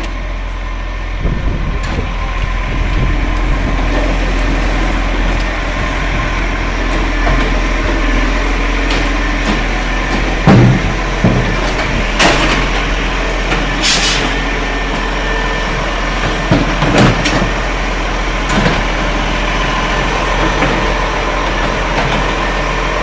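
Garbage truck's diesel engine running steadily close by, with several sharp knocks and bangs about halfway through.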